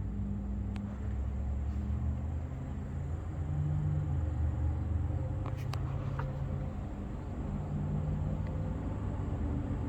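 An engine running steadily with a low rumble, with a few faint clicks about halfway through.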